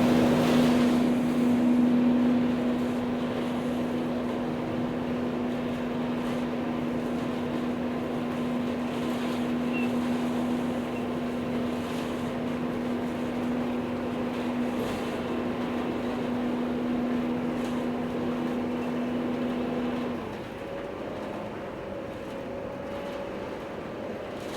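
Steady mechanical hum holding one pitch, under a noisy outdoor background; it stops about twenty seconds in, leaving the background a little quieter.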